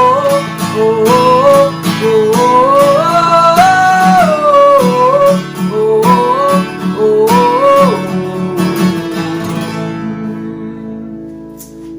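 Outro of a worship song: acoustic guitar strumming under a wordless sung melody of long held, stepping notes. The strumming stops about ten seconds in, and the last chord rings away.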